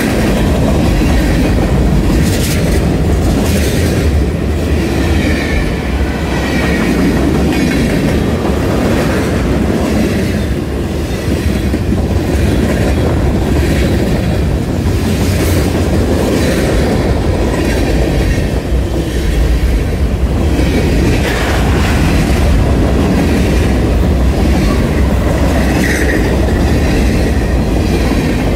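Freight cars of a CSX train rolling past on the rails: a loud, steady rumble of steel wheels with a running clickety-clack over the rail joints, and brief faint wheel squeals a few times.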